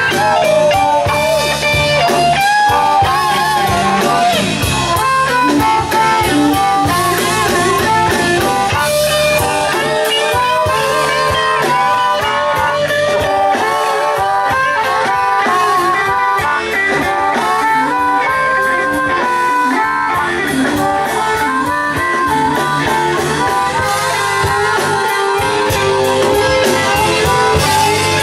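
Live blues band playing an instrumental passage: electric guitar lead with bending, wavering notes over bass and drum kit.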